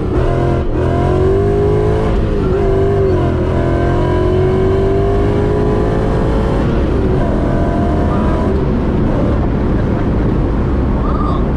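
Supercharged BMW S62 4.9-litre V8 with straight-piped exhaust running under way, its pitch climbing slowly for a few seconds and then dropping about seven seconds in.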